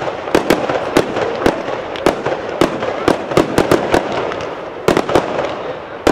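Fireworks display: a rapid, irregular run of sharp bangs, several a second, over a continuous crackling hiss of bursting shells.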